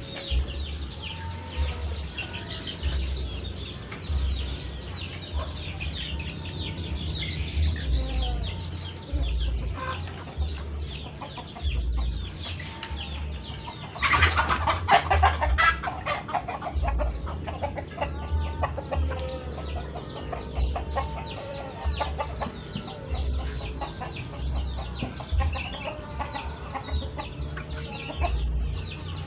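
Sooty-headed bulbul (kutilang) calling loudly in rapid, chattering chirps, with a louder flurry of calls about halfway through.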